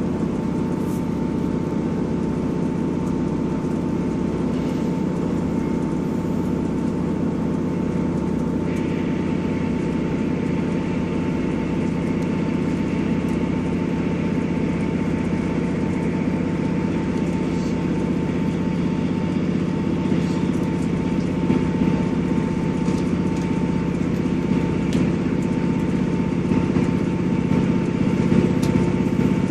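Class 158 diesel multiple unit running steadily under power: an even diesel drone with a constant whine. A hiss joins in about a third of the way through, and the sound grows slightly louder near the end.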